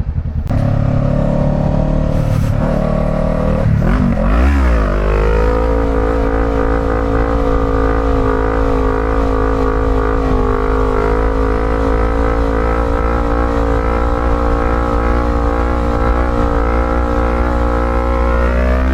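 Motorcycle engine under way, with wind noise on the microphone. The revs swing up and down about four seconds in, then the engine holds a steady note at constant speed for most of the rest.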